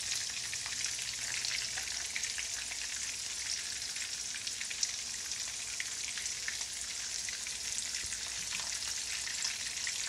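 Coconut-breaded shrimp frying in shallow hot oil in a skillet: a steady sizzle with small crackling pops, and one sharper click about five seconds in.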